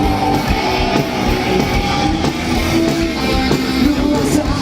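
Live rock band playing on stage, with electric guitar to the fore.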